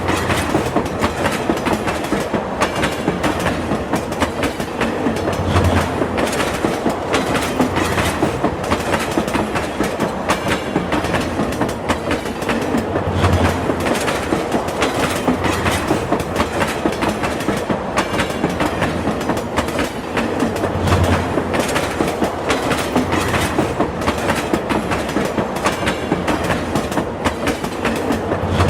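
Passenger train running steadily, its wheels clattering on the rails with a dense clickety-clack. A deeper low thump comes about every seven or eight seconds.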